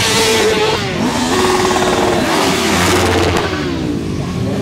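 Several motorcycle engines revving at once, their pitches rising and falling and overlapping.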